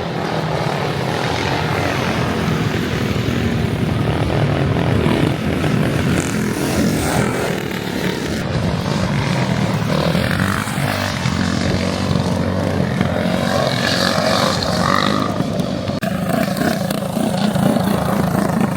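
Small motorbike engines running, a steady drone.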